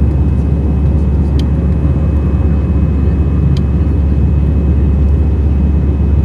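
Steady low rumble of an airliner cabin: engine and airflow noise, unchanging, with a faint thin whine above it.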